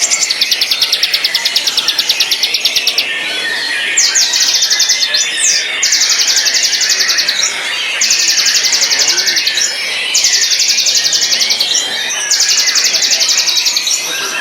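White-rumped shama singing: a run of rapid, high, rattling trills, each lasting about a second and a half and repeated about every two seconds, over softer chirping.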